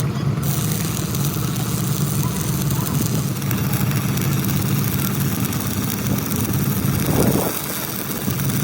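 An engine running steadily. About seven seconds in, a short louder sound is heard; the engine hum then drops out for about a second and comes back.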